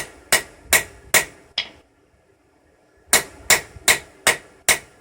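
Hand hammer striking the steel hook being forged, metal on metal with a bright ring: two runs of five blows, about two and a half a second, with a short pause between.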